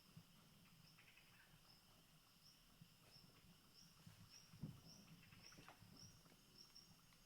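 Faint rainforest ambience: a steady high insect drone with short high chirps repeating about twice a second through the middle, and a few soft knocks, one louder just past halfway.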